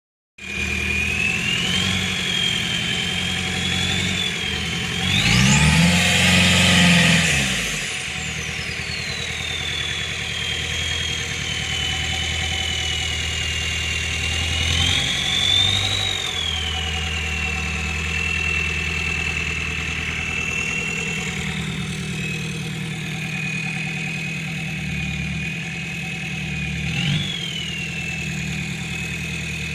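VW T3's AAZ 1.9 turbodiesel idling with its small K03 turbo whistling steadily. A few seconds in the engine is revved hard once, the turbo whistle climbing sharply and falling back as the revs drop; it is blipped briefly twice more later.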